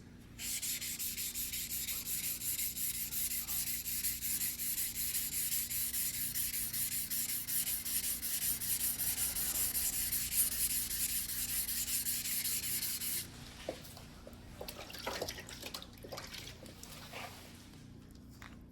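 A single-bevel white-steel sashimi knife being sharpened by hand on a wet whetstone: rapid, even back-and-forth scraping strokes that stop about thirteen seconds in. A few faint light clicks and handling sounds follow.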